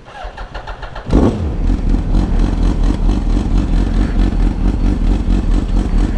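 Yamaha R1's inline-four engine cranking on the starter with quick even pulses for about a second, then catching with a sudden loud burst and running steadily.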